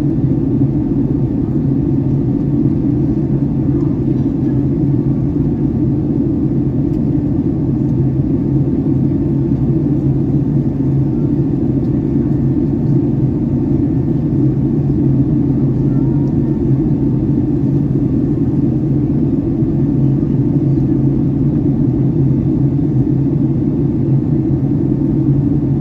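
Steady low drone of engine and airflow noise inside the cabin of a Boeing 757-300 airliner in flight, even and unbroken throughout.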